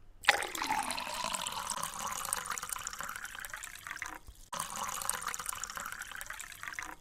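Water running from a tap, in two stretches with a short break about four seconds in.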